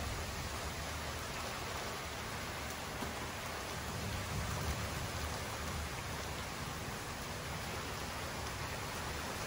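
Heavy rain falling steadily, an even hiss of rain on the ground and the patio.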